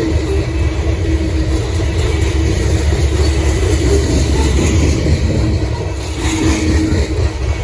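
Freight train passing close by: a steady loud rumble of railcars rolling over the track.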